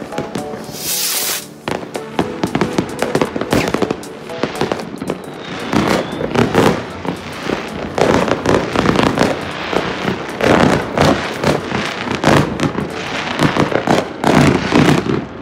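Fireworks going off all around in a dense run of bangs and crackles, with a brief hiss about a second in.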